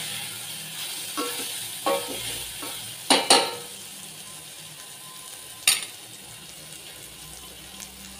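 Soya chunks sizzling in hot oil in a stainless steel pot while a spatula stirs them, scraping and knocking against the pot. There are two sharp knocks about three seconds in and another near six seconds.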